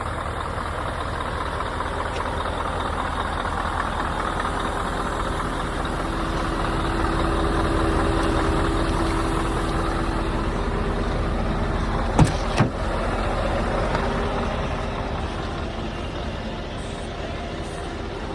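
Scania engine running steadily, with two sharp clicks about twelve seconds in.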